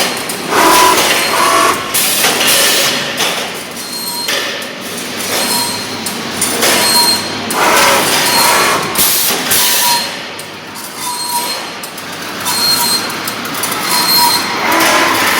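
Drywall profile roll-forming machine running: a loud mechanical noise that swells and eases every second or two, with faint steady tones coming and going.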